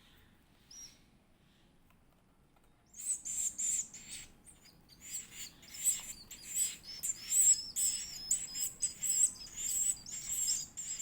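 Edible-nest swiftlet chick giving rapid, high-pitched chirping calls, typical of begging while being fed. The calls start about three seconds in and repeat several times a second.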